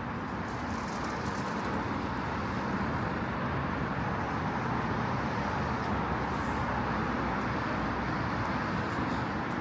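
Road traffic going by on a city street: a steady wash of car engine and tyre noise that swells slightly a couple of seconds in.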